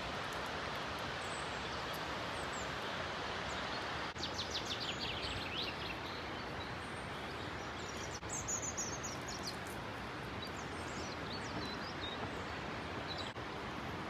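Small birds chirping over a steady rushing background noise: a rapid trill about four seconds in, a higher call about halfway through, and scattered short chirps near the end.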